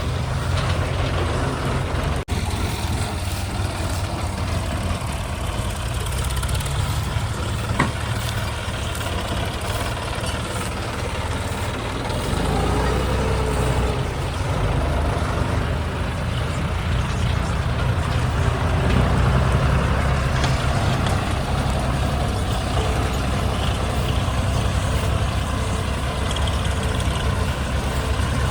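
JCB 3DX backhoe loader's diesel engine running steadily while the machine works, with a brief dropout about two seconds in and the engine growing somewhat louder about halfway through.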